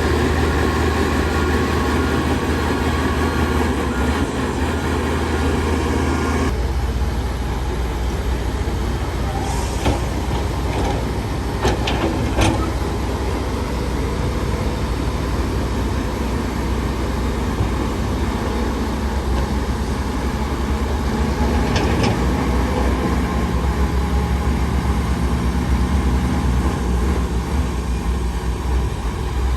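Heavy diesel earthmoving machinery, a bulldozer and dump trucks, running steadily with a deep engine rumble. The sound changes abruptly about six seconds in, and a few sharp knocks come around ten to twelve seconds in and again near twenty-two seconds.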